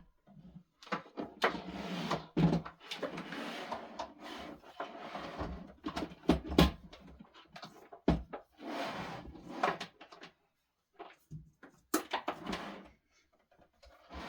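Solid-wood dining table parts being handled: irregular knocks, clunks and scraping of wood. Sharp knocks stand out about six and a half seconds in and again near twelve seconds.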